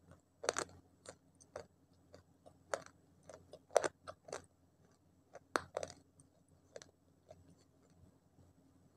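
Close mouth sounds of biting and chewing slate pencils coated in wet multani mitti (fuller's earth) paste. Sharp, irregular crunches come every half second to a second, the loudest about four seconds in.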